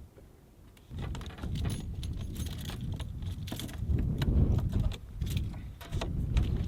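Rapid clicking and jangling of small metal objects, starting about a second in, over a low uneven rumble.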